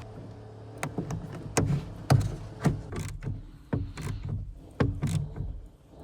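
Irregular sharp clicks and clunks of hand tools on metal, about one or two a second, from reconnecting a car battery terminal, over a faint steady low hum.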